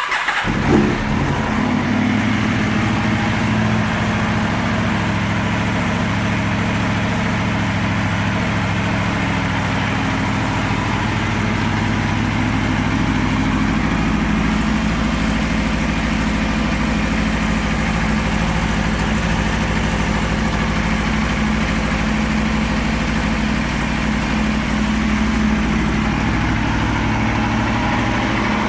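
Aprilia RSV4 R APRC's V4 engine fired up, flaring briefly as it catches, then idling steadily.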